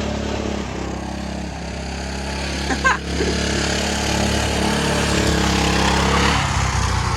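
John Deere garden tractor engine running steadily. About three seconds in there is a brief sharp louder sound, and a little after six seconds the engine note changes to a lower, pulsing beat.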